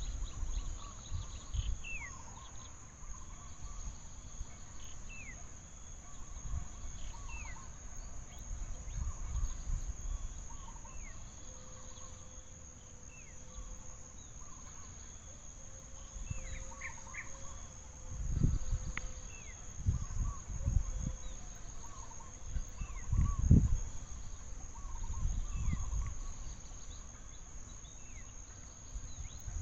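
Outdoor ambience: a steady high-pitched insect drone with many short, repeated chirping bird calls, and irregular low rumbles, heaviest in the second half.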